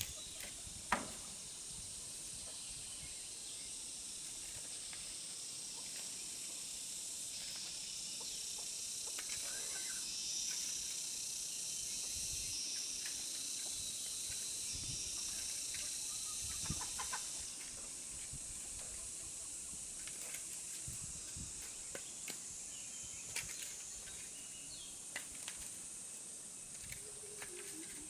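A steady, high-pitched chorus of insects, stronger through the middle, with scattered light knocks and a few faint clucks from chickens.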